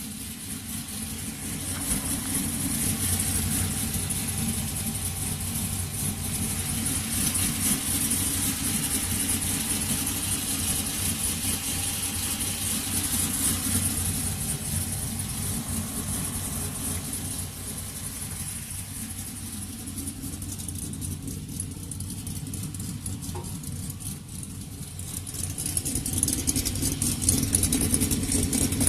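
2007 Chevy Silverado engine running through a 2.5-inch exhaust: a steady low exhaust rumble that eases off for a while, then grows louder near the end.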